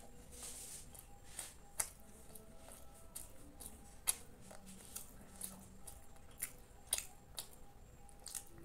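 Close-miked chewing of syrup-soaked fried malpua: irregular wet mouth clicks and smacks, a few of them sharp.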